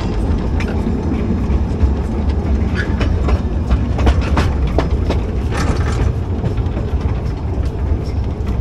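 Narrow-gauge train running along the track, heard from aboard: a steady low rumble with frequent irregular clacks and knocks from the wheels and coaches.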